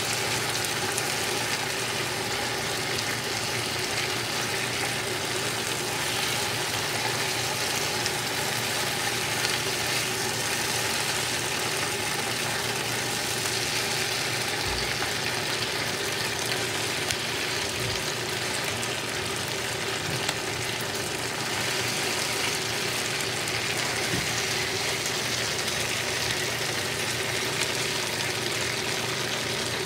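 Pork stir-fry with potatoes, onions and peppers sizzling steadily in a hot frying pan, stirred now and then with a wooden spatula.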